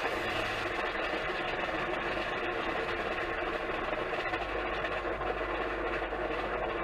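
Supercharged Ford Thunderbird engine idling steadily, with a noise the owner puts down to a bad supercharger bearing rather than a rod knock.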